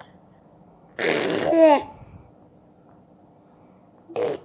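A baby's voice: a breathy, raspy vocal burst about a second in, ending in a short pitched squeal. Another vocal sound starts near the end.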